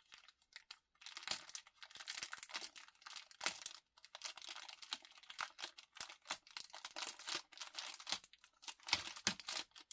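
Packaging crinkling and rustling as it is handled and opened, in dense irregular crackles, with louder crackles about three and a half seconds in and near the end.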